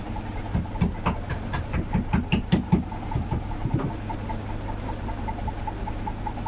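A quick run of about a dozen sharp knocks or taps over a few seconds, over a steady low hum, followed by a faint regular ticking of about five a second.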